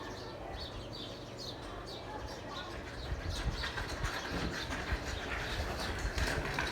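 Many small birds chirping, a rapid run of short high chirps that grows denser and louder about halfway through, over a steady low rumble.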